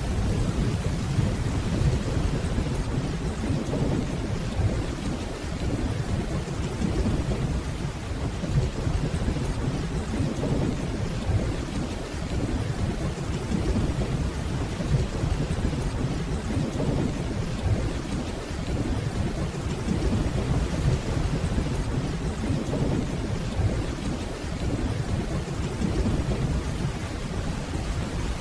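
Steady rainfall over a continuous low rumble of distant thunder, with no sharp claps.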